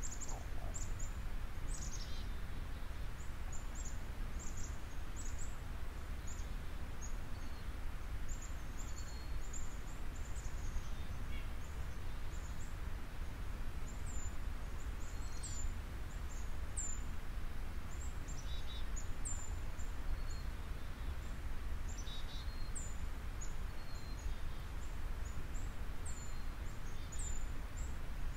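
Small birds chirping, short high-pitched chirps again and again, over a steady low background rumble.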